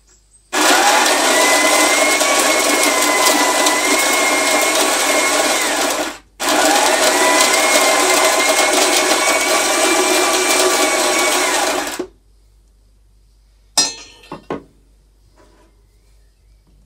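Second-hand coffee machine running in two loud bursts of about five and a half seconds each, a steady whir with a whine that rises as each burst starts and drops as it stops. A few short clicks follow near the end.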